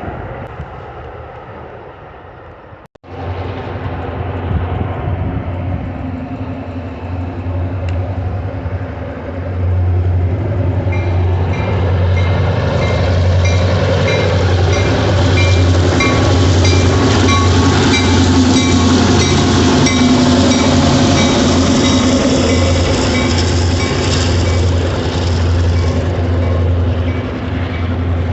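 Train passing close by, with a steady low diesel rumble that grows louder about ten seconds in. A regular high-pitched ticking runs through the middle of the pass. The sound cuts out briefly about three seconds in.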